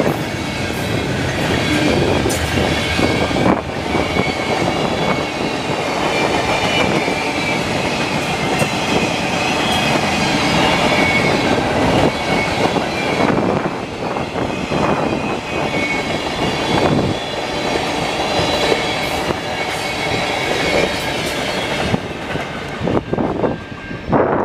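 Freight cars rolling past on the rails: a steady rumble with clicks from the wheels and thin, high ringing tones from the wheels, with strong wind buffeting the microphone. Near the end the rail noise falls away as the last cars go by, leaving mostly wind.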